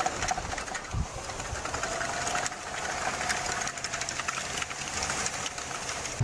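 A machine running with a rapid, even clatter and a faint steady whine.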